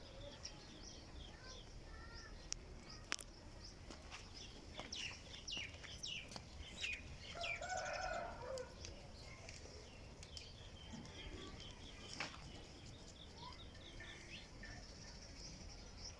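Small birds chirping over and over, with a louder, lower call about halfway through and a few sharp clicks.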